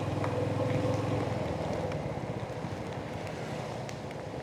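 Royal Enfield Hunter 350's single-cylinder engine running while riding, its exhaust pulsing steadily, with some wind noise on the microphone. The engine note eases off a little after about a second.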